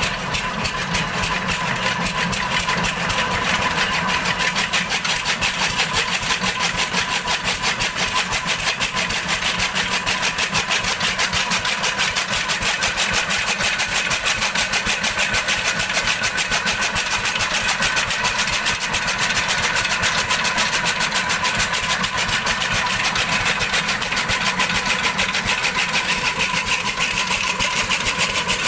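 12 HP Lister-type single-cylinder diesel engine running steadily, with an even, rapid thump of about seven beats a second.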